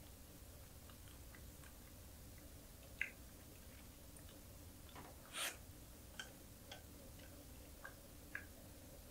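Quiet close-up eating sounds: chewing small dried anchovies and green chili peppers, with scattered light mouth clicks. A sharp click comes about three seconds in and a brief louder chewing sound a little past five seconds.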